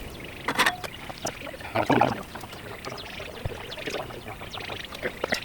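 Food sizzling and crackling in hot oil on a Blackstone flat-top griddle, with two louder bursts about half a second and two seconds in.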